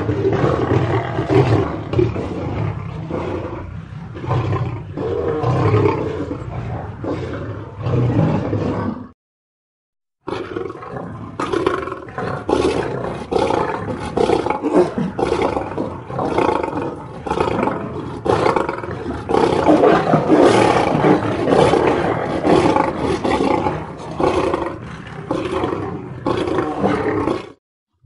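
Lions roaring. One recording stops about nine seconds in, and after a second of dead silence another, longer recording of roaring begins, stopping shortly before the end.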